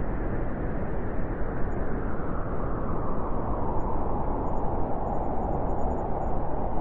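Howling blizzard wind blowing steadily, a dense rushing noise with a hollow howl that grows a little stronger partway through.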